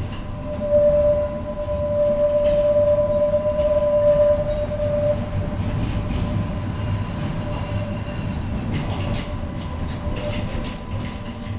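Tatra T5C5K tram running, heard from inside the car: a steady low rumble of wheels on rails. A steady high whine sounds from about a second in until about five seconds in. Near the end come a few clicks and knocks from rail joints.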